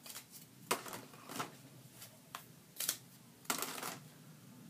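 A series of soft, irregular rustles and light clicks from handling something close to the microphone. There are about seven short strokes, with a longer rustle just past the middle.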